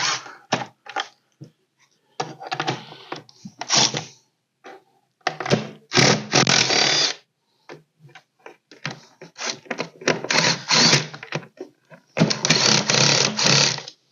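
Hand tools being handled on a workbench: irregular clicking, rattling and knocks, with two longer stretches of dense clattering, one about six seconds in and one near the end.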